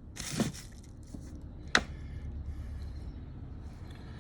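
Brake caliper parts handled on a workbench: a brief scrape, then a single sharp knock a little under two seconds in, over a low steady hum.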